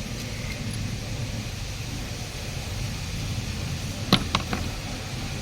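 Steady low rumble with three sharp clicks in quick succession about four seconds in, the first the loudest.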